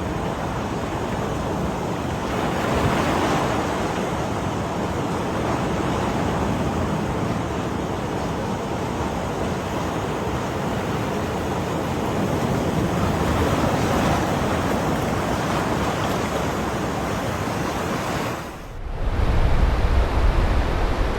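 Ocean surf washing onto the shore, a steady rush that swells twice. Just before the end it drops out briefly and gives way to a louder low rumble of wind on the microphone.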